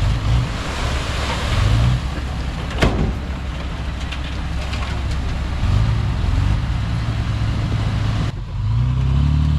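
Heavy earthmoving machine's diesel engine running steadily, with a sharp knock about three seconds in. Near the end the sound changes abruptly and the engine note rises in pitch.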